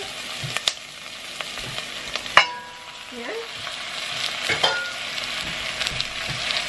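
Chopped onions sizzling in oil in a nonstick pot, with a few sharp knocks of a utensil on the pot, the loudest about two and a half seconds in. Raw minced pork goes into the pan partway through, and the sizzling grows a little louder after it.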